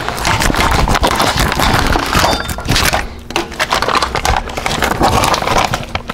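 Kitchen handling noise: a dense, uneven run of knocks, cracks and crinkling as things are handled and shifted about.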